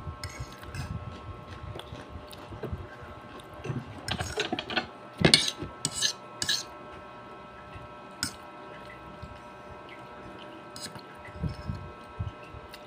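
Cutlery clinking and scraping against a plate while eating, a quick cluster of clicks around four to six seconds in and one more a couple of seconds later, over a steady hum.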